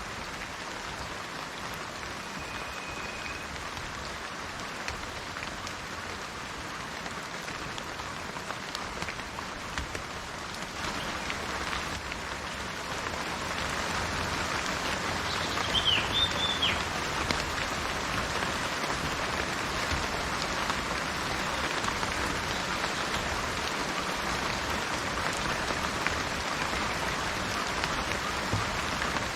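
Steady rain falling on garden foliage and trees, growing heavier about halfway through. A short bird chirp sounds near the middle.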